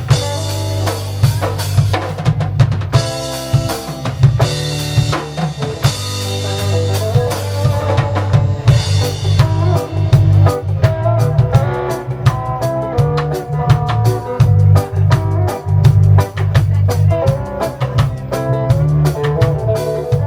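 Live reggae band playing an instrumental lovers rock passage: a heavy bass line under drum kit and other instruments, with no singing. About halfway through the drums settle into a fast steady tick.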